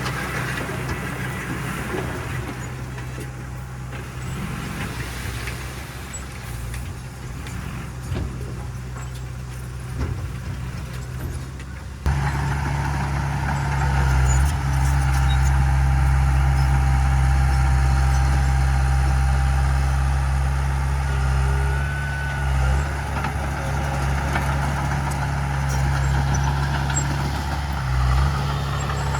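Heavy diesel earthmoving machinery running steadily. About twelve seconds in it turns abruptly louder and deeper.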